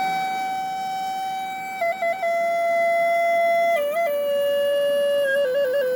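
Lakota (Native American-style) flute playing a slow solo melody of long held notes, with quick ornamental flutters about two seconds in and again near the end. The melody steps down in pitch over the phrase.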